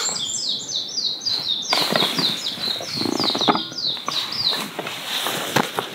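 A small songbird singing a fast run of short, high notes, each sliding downward, about four a second, which dies away near the end. A few soft clicks and knocks sound alongside.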